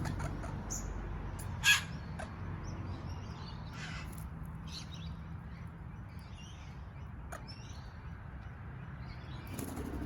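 Birds, plausibly the red-capped parrots, making faint twittering calls and a few short rustling bursts, with one sharp click a little under two seconds in, over a low steady background hum.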